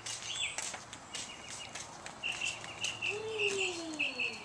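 Wild birds calling: a quick run of short high chirps, about four a second, starting about halfway through, with a lower call that rises and then falls near the end. Light rustling early on.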